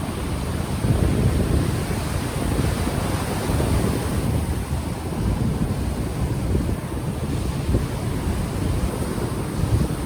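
Gentle ocean waves washing ashore, with gusting wind buffeting a microphone that has no windscreen and adding an uneven low rumble.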